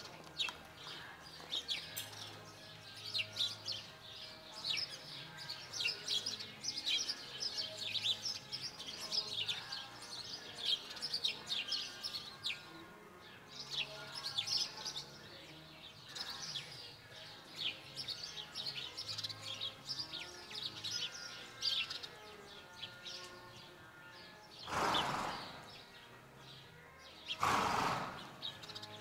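Small birds chirping rapidly and continuously, many short high chirps overlapping. Near the end come two brief, louder rushes of noise about two seconds apart.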